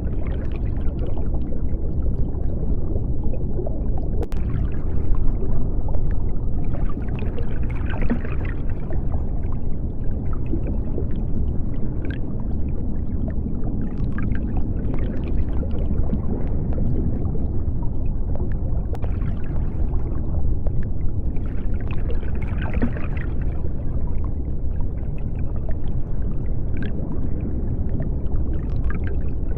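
Underwater ambience: a steady deep rumble with bubbling and gurgling that swells twice, and scattered faint clicks.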